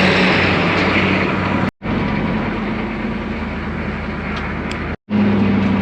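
A farm vehicle's engine running steadily, a low hum with a noisy rush over it. The sound drops out completely for a moment twice.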